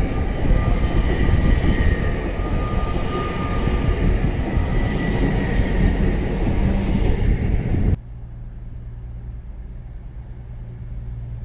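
An LNER Class 800 Azuma multiple unit moving through the station: a loud rumble with a steady high whine over it. About eight seconds in it cuts off abruptly to a much quieter low steady hum.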